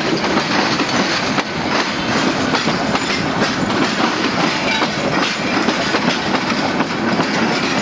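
Train running at speed close by, wheels clattering over rail joints in a steady stream of clicks over a continuous rumble.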